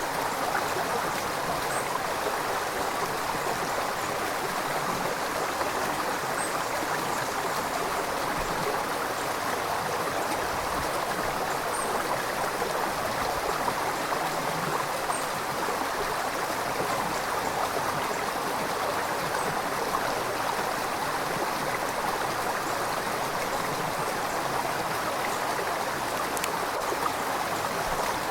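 River water flowing over rocks: a steady rushing and babbling with no change in level.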